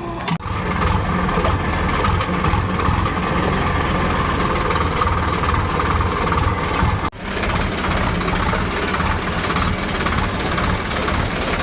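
Tractor's diesel engine running steadily, with two brief breaks in the sound, about half a second in and about seven seconds in.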